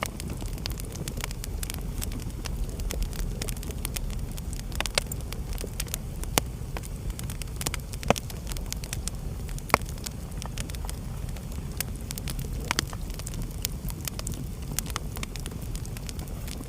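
Wood fire burning in a fireplace: irregular crackles and sharp pops over a steady low rumble of flame, with a few louder pops about six, eight and ten seconds in.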